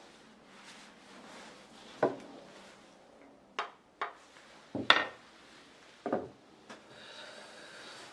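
About six sharp knocks and clacks of wood and metal at irregular intervals, the loudest near the middle: a Japanese plane (kanna) being handled and knocked on the bench during its adjustment.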